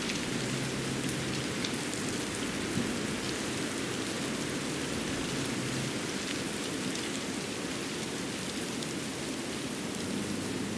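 Steady rain-like hiss of water drops falling, with scattered faint ticks of single drops.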